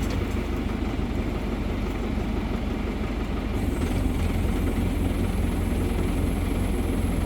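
Crane engine running steadily with a low, even throb.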